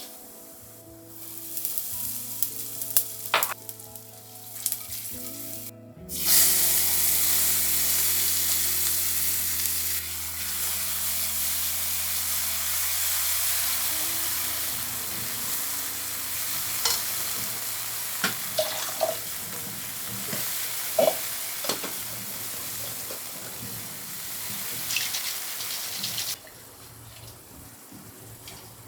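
Food frying in hot oil in a pan, with a loud steady sizzle that starts abruptly about six seconds in and cuts off shortly before the end. Occasional sharp clicks sound over it, like a utensil touching the pan.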